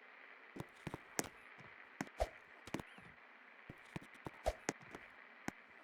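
Best Electric Works Gold Medal 48-inch ceiling fan running with a steady hum, over irregular sharp clicks and ticks and two heavier knocks.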